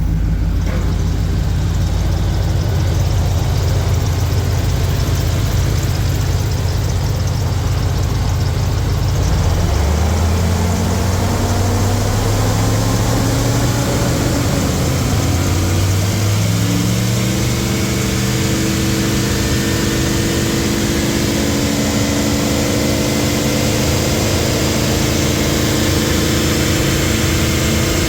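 2008 GM/Chevrolet 4.8-litre gasoline V8 running, first at a steady idle, then rising smoothly in speed from about ten seconds in and holding at the higher speed for the rest.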